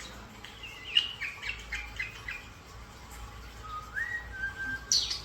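Pet birds calling: a quick run of short chirps about a second in, then a whistle that rises and holds one steady note, and a sharp high chirp near the end.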